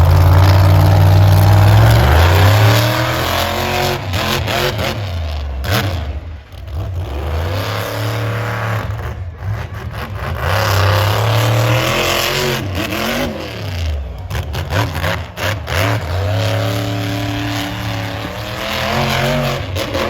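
Monster truck engine revving hard over and over, its pitch climbing and dropping several times in quick succession.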